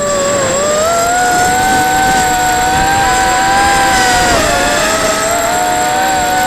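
Eachine Racer 250 quadcopter's brushless motors and propellers whining, the pitch wavering up and down with throttle, with a low rush of strong wind.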